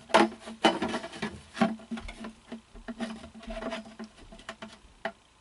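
Clicks and knocks of an animatronic's frame parts being handled and fitted together: a run of sharp taps, loudest in the first two seconds, thinning out toward the end.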